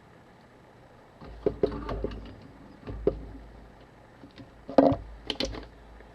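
Scattered sharp clicks and knocks of small metal parts and tools being handled on a workbench while a film camera body is taken apart, with low bumps of handling in between.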